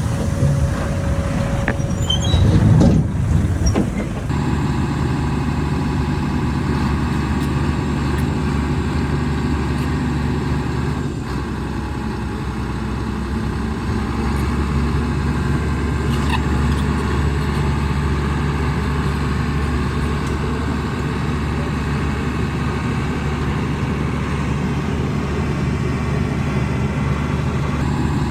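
Diesel engine of a Shantui DH17C2 bulldozer running steadily, with a louder, rougher rush a few seconds in.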